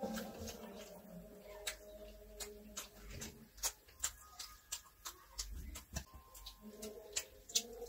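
Close-up eating sounds: irregular sharp clicks and smacks of chewing and lips, a few a second, as fried chicken and fried rice are eaten by hand.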